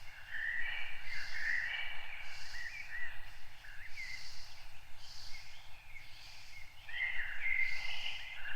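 Wild birds chirping and warbling: many short, rapid phrases overlapping, with a softer higher note repeating about once a second.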